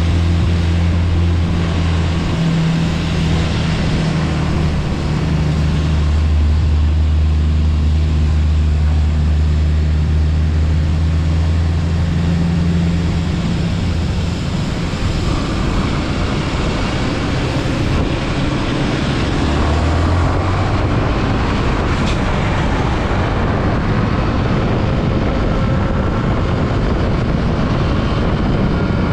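Motorcycle engine running at a steady speed under loud wind rush while riding. After about 15 seconds the engine tone drops away and only the wind and road noise remain.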